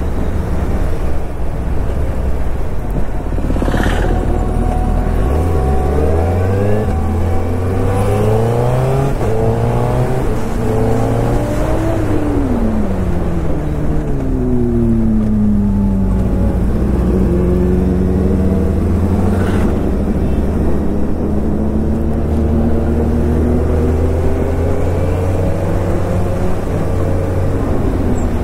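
Suzuki Hayabusa's inline-four engine under way. It climbs in pitch through a few quick upshifts, falls as the bike slows, then holds a steady pitch at cruise.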